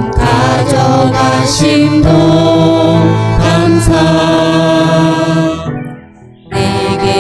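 Church praise song from a worship band, with a brief drop-out about six seconds in before the music comes back in.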